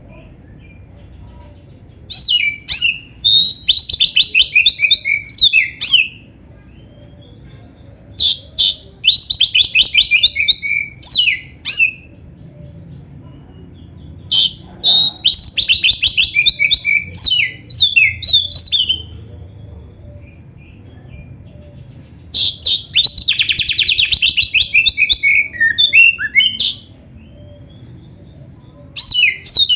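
Oriental magpie-robin (kacer) singing in loud bouts of fast trills and whistled phrases, each lasting three to five seconds with short pauses between. Four bouts come in full, and a fifth starts near the end.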